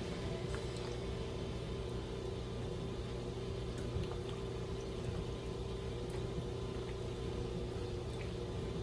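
A steady mechanical hum with a constant low tone, and a few faint ticks over it.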